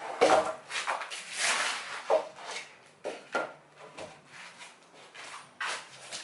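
Irregular wooden knocks and scrapes as a timber beam is handled and worked into place between roof rafters, louder in the first few seconds and lighter toward the end.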